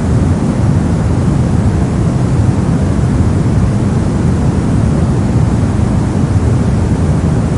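A steady, unchanging rushing hiss from a generated noise track, sold as white noise but heaviest in the bass and thinning out towards the top, so it sounds deep, like distant surf. It is loud throughout.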